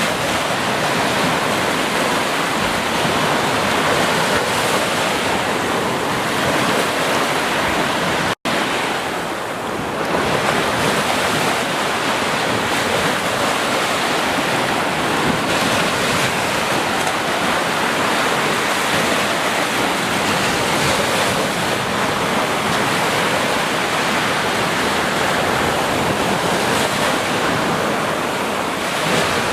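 Ocean surf washing steadily onto a beach, a continuous rushing noise. About eight seconds in the sound cuts out for a split second, then the surf resumes.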